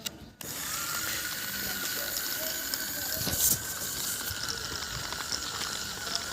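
The small electric gear motors of a homemade RC tractor running: a steady high whine that starts about half a second in, over a rattle of gears, with a short louder burst about three and a half seconds in.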